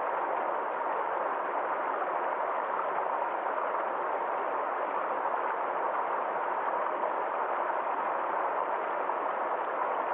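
Water flowing steadily over rocks in a small forest stream: an even rushing with no breaks or separate splashes.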